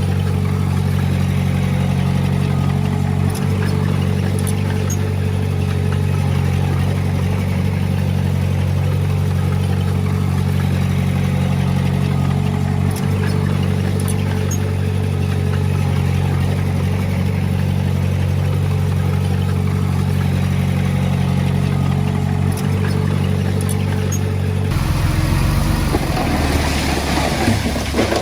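A heavy-equipment diesel engine runs steadily at an even speed. About 25 seconds in, the sound switches abruptly to a rougher, noisier engine sound.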